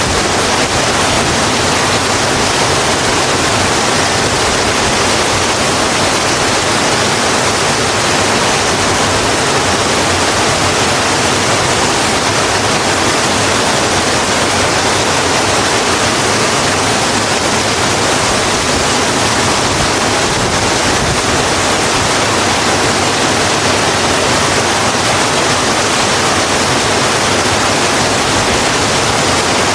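Steady, even rain falling, a constant hiss with no separate drops or thunder standing out.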